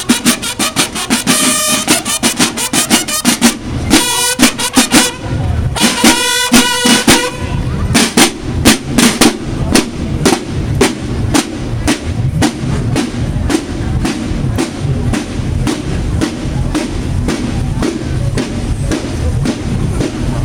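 Drums playing a steady, fast beat. Held brassy horn notes sound over it twice in the first seven seconds.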